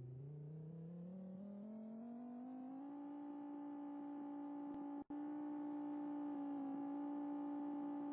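Outdoor tornado warning siren winding up: a steady tone climbs in pitch over about three seconds, then holds a level wail, cutting out for an instant about five seconds in.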